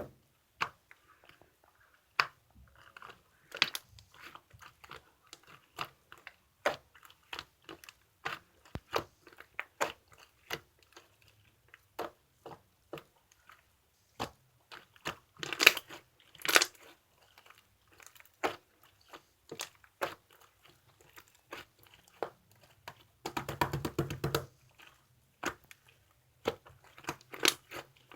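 Opaque marbled slime being pressed and worked by hand, with air pockets popping in irregular sharp clicks and a short run of dense crackling about two-thirds of the way through.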